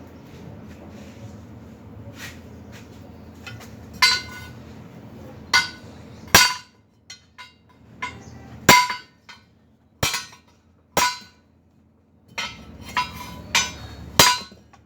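Hammer striking steel, about ten sharp blows at irregular intervals starting about four seconds in, each leaving a brief metallic ring.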